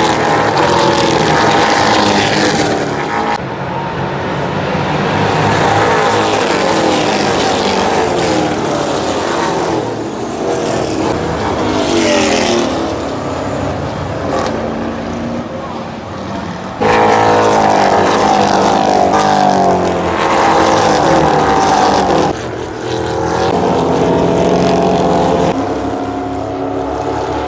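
Racing vehicles' engines passing at speed on a circuit, pitch sweeping up and down over several passes, with sudden jumps in level.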